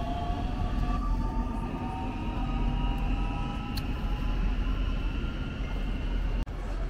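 Electric train running, with a steady low rumble and a whining electric-motor tone that drifts slowly in pitch. The sound cuts out for an instant near the end.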